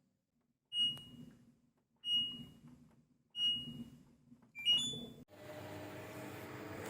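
LG washing machine control panel: three button presses, each with a click and a short beep, then a quick rising chime. A moment later the drum motor starts turning with a steady hum and a slowly rising whine.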